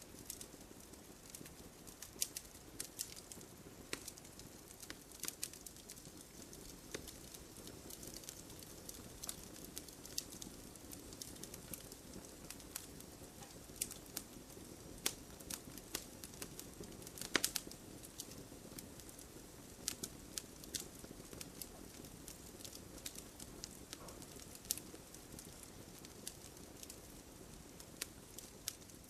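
Wood campfire crackling: irregular sharp pops and snaps of burning wood over a soft steady hiss of the flames, with a quick cluster of louder pops a little past halfway.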